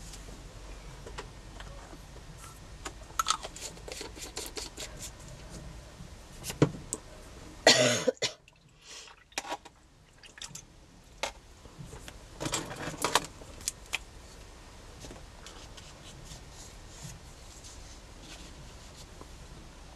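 Scattered clicks, taps and rustles of craft supplies being handled and set down on a worktable, with a louder clatter about eight seconds in.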